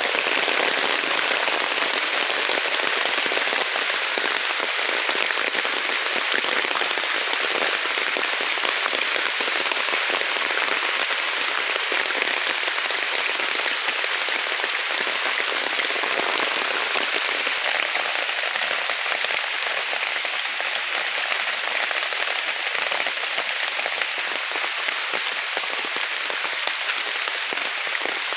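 Heavy rain falling steadily in woodland, a dense even patter of drops hitting leaves and ground.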